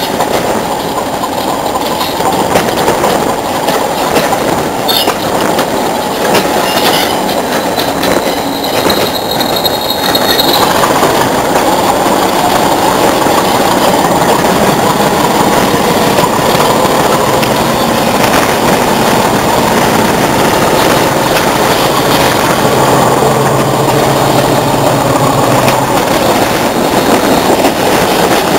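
English Electric Class 40 diesel-electric locomotive hauling a passenger train, its engine running steadily under the rail noise of the train. A brief high squeal comes about a third of the way in, and then the sound grows a little louder and holds steady.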